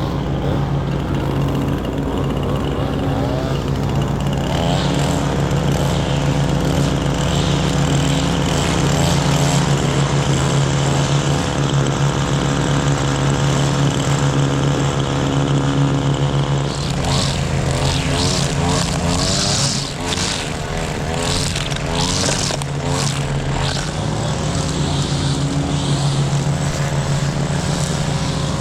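Riding lawn mower engine running steadily under load while mowing wet grass. For several seconds past the middle, a higher wavering, crackling sound joins it.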